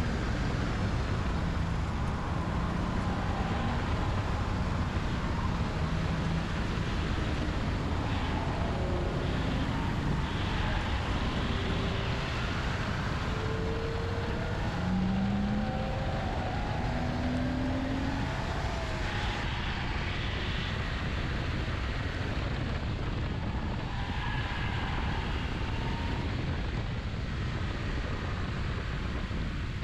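BMW E30 being driven hard on a race track. The engine runs under load over steady road and wind noise, and its pitch rises and falls in short glides through the lap.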